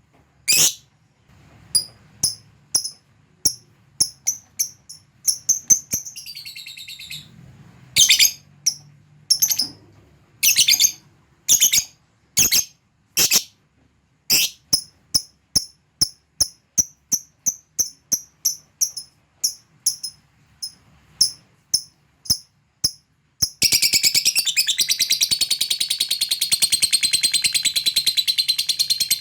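Lovebird giving sharp, high, separate chirps, a couple to several a second, with one wavering call a few seconds in. About 23 seconds in it breaks into a long, continuous rapid chatter, the 'ngekek panjang'.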